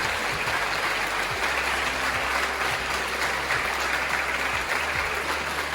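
Audience applauding steadily: a crowd of many hands clapping at a constant level.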